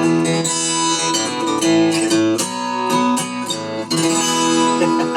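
Acoustic guitar strumming and ringing out chords with no singing: the instrumental ending of a country song.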